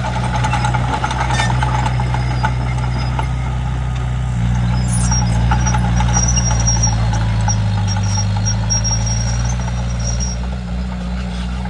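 Komatsu D31P bulldozer's diesel engine running steadily at work, with a few knocks in the first seconds and, from about halfway, an intermittent high-pitched squeal.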